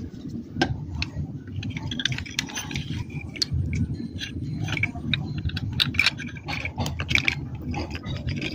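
Irregular clicks, taps and light scraping from metal parts of a standing fan's motor being handled and fitted back together after oiling its bearing, over a steady low background rumble.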